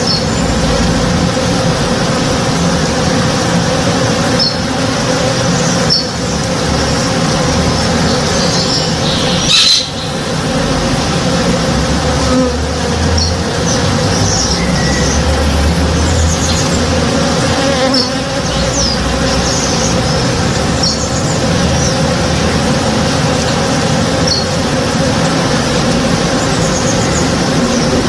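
Many honey bees buzzing steadily together in a dense, even hum as they forage on a tree in bloom.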